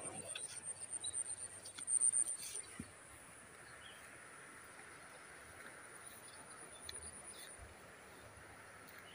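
Insects calling in a steady, high-pitched whine. A louder, rapidly pulsing sound fills the first three seconds.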